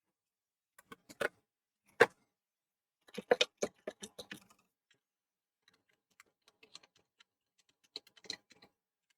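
Irregular light clicks and taps of small hard objects being handled on a workbench: a few single clicks, then a quick cluster about three seconds in and another near the end, with faint ticks between.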